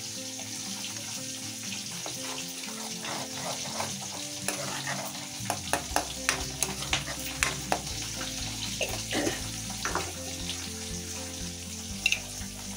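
Ground onion and garlic paste with chilli powder sizzling in hot oil in a steel wok, stirred with a steel ladle. The ladle scrapes and taps against the pan in a quick run from about four to ten seconds in, with one more tap near the end.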